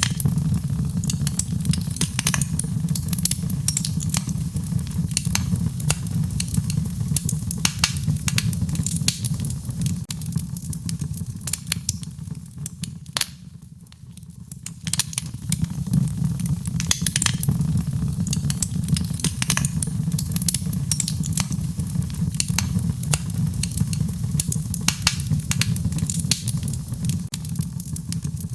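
Fire in a fireplace crackling, with many sharp pops and clicks over a steady low rumble of the flames. The sound fades briefly about halfway through, then comes back.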